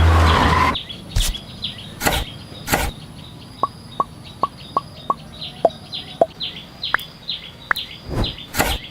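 Scattered light knocks and taps, with a run of short high chirps and a few brief pitched blips in between, opening with a short noisy burst.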